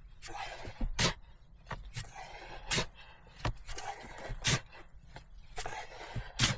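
Hand-tool work: four sharp strikes, roughly one every one and a half to two seconds, with scraping between them.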